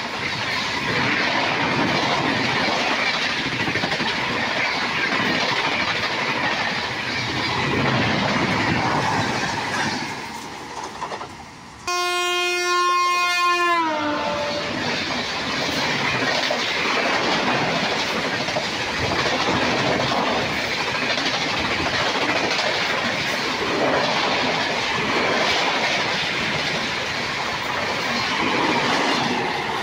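Express train coaches rushing past close by, wheels clattering over the rail joints. The noise dies away about ten seconds in, a train horn sounds for about two seconds and drops in pitch as it ends, and then another train's coaches rush past.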